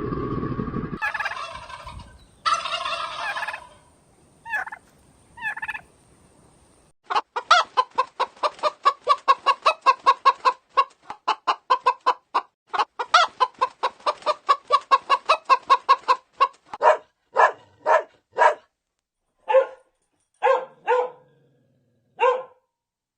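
The tail of a deep roar in the first second, then domestic fowl calling: a few longer calls, then a fast run of clucks about three to four a second that slows to single clucks roughly a second apart near the end.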